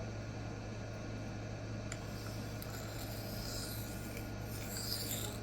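A Böhler K110 steel knife blade stroked on a Rikon CBN sharpening plate, soft rhythmic scraping strokes that start about three seconds in, over a steady low hum.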